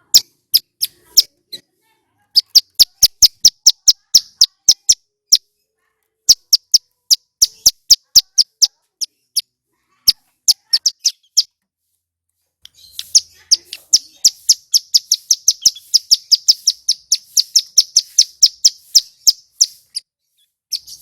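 Male ciblek gunung (mountain prinia) in full song. Loud, sharp, high chirps come in quick runs of about six a second, broken by short pauses. A longer, faster trill runs through most of the second half.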